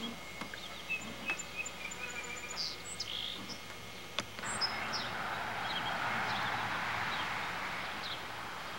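Small birds chirping in short high calls, with a single sharp click about four seconds in, after which a steady hiss comes up under the chirps.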